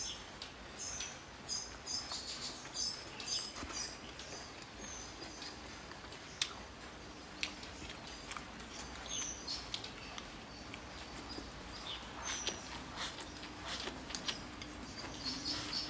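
Close-up eating sounds: wet chewing and lip smacking on rice and egg, with many short squeaky mouth noises. Bamboo chopsticks tick and scrape against the plate, two sharper clicks near the middle.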